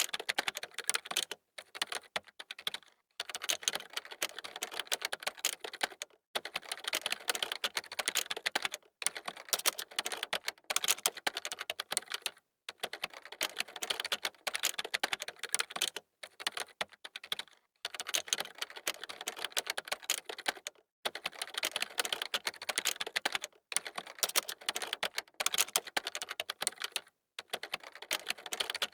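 Fast typing on a computer keyboard: dense key clicks in runs of a couple of seconds, each broken off by a short pause.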